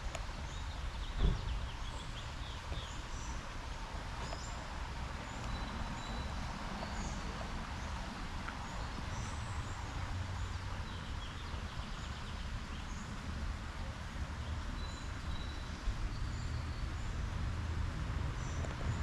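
Birds chirping in short, scattered calls over a steady low rumble, with one thump about a second in.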